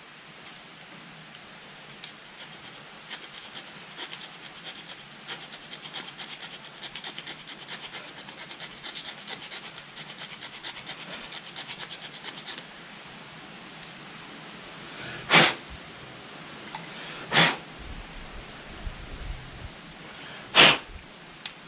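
Small clicks and scratching of hands working at a motorcycle handlebar switch housing, then three short, loud puffs of blowing a few seconds apart.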